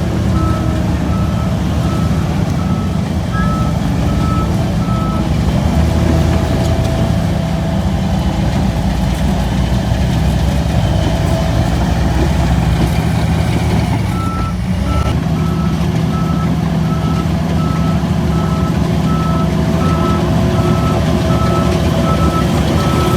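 Shantui DH17C3 bulldozer's diesel engine running steadily, with its reversing alarm beeping at an even pace for the first few seconds and again from a little past halfway as the dozer backs up.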